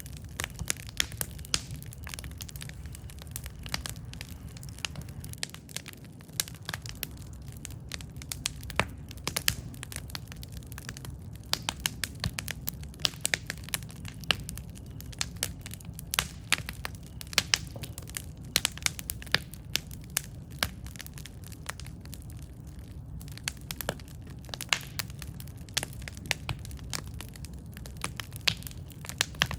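Campfire burning: wood crackling and popping in quick irregular snaps over a steady low rumble of the flames.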